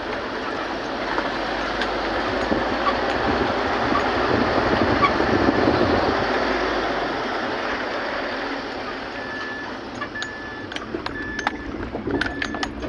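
A road vehicle passing by: a steady rushing noise that swells to its loudest about halfway through and then fades away.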